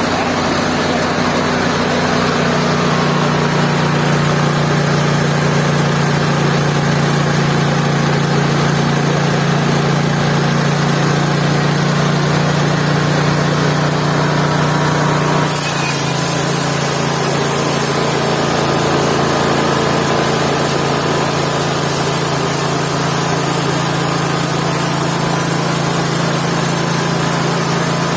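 Mobile band sawmill's engine running steadily under a dense mechanical noise. About halfway through, the sound changes abruptly, its pitch shifting slightly as a steady high hiss sets in.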